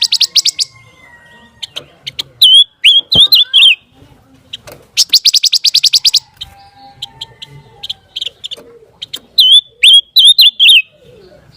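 Song of a bird kept as a 'pancawarna' songbird, played as a training (masteran) recording: loud, very fast high trills followed by sharp chips and hooked, slurred whistled notes. The sequence comes twice, about five seconds apart.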